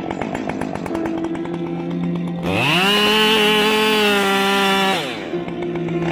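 Chainsaw idling, revved up to full throttle about two and a half seconds in, held there for a couple of seconds, then dropped back to idle.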